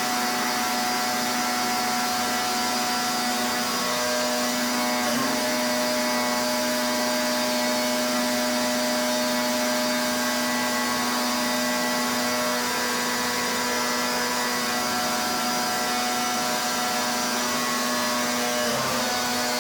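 Pressure washer running steadily: a constant machine drone from the pump unit with the hiss of the high-pressure water spray over it. It wavers briefly twice, about five seconds in and near the end.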